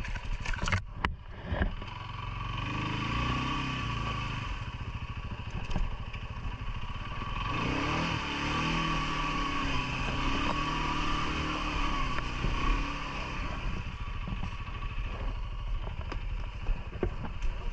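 CFMoto ATV engine running as it is ridden, its revs rising and falling twice, with a few sharp knocks in the first couple of seconds.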